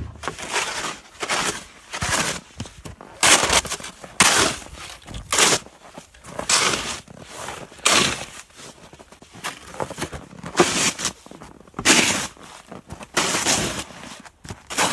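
Footsteps crunching through foot-deep, very cold snow, about one step a second.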